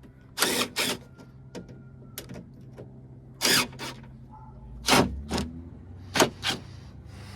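Handling noises from refitting a truck's interior door panel: about seven short scuffs and rattles of plastic trim and small screws, over a faint steady hum.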